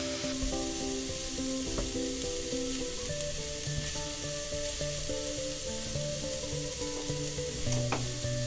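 Diced ham, carrot and onion sizzling steadily in a hot frying pan, stirred and pushed around with a silicone spatula.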